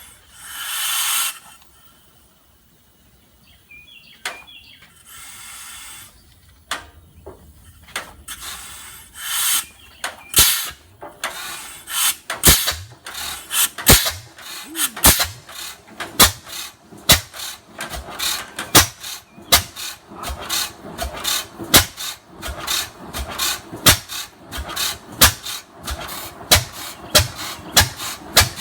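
Old Fairbanks Morse stationary engine starting: a short burst of hiss, then slow firing beats that pick up and settle into a steady rhythm of about one and a half beats a second as it comes up to a cold-start idle.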